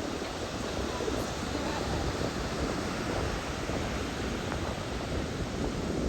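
A steady rushing noise, even and unbroken, with no distinct events.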